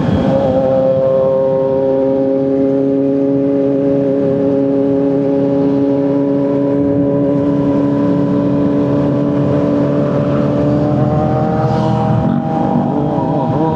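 Honda CBR650R inline-four engine running at steady, high revs while riding. Its pitch holds nearly level, then rises slightly near the end.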